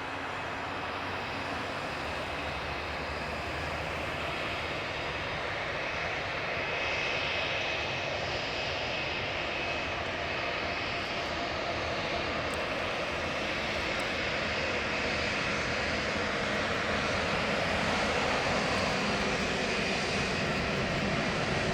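Airbus A321-231's IAE V2500 turbofan engines running at low power, a steady rushing noise with a thin high whine, growing slightly louder over the stretch.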